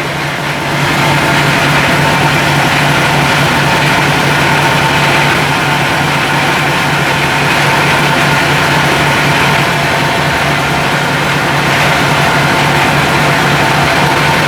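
Meatball grinding machine running steadily, a low machine hum with a thin steady whine above it, coming up to full level about a second in.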